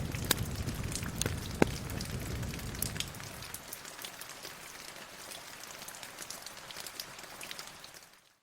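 Steady rain with a crackling fireplace: sharp pops over a low rumble for the first three seconds, then the rumble drops away and the rain alone fades out to silence near the end.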